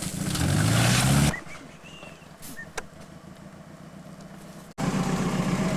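The 1985 Pontiac 6000's engine revving hard, its pitch rising for about a second before it cuts off abruptly. After a few quieter seconds the engine is heard idling steadily near the end.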